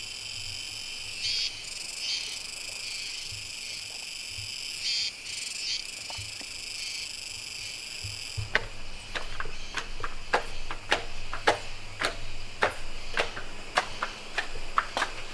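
Insects chirring steadily in an autumn night chorus, crickets among them. About eight seconds in, sharp irregular clicks start, one or two a second.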